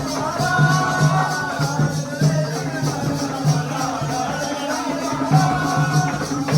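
Jakhadi folk music: a singer's wavering melody over a steady, repeating drum beat, with a bright jingling percussion that keeps time on the beat.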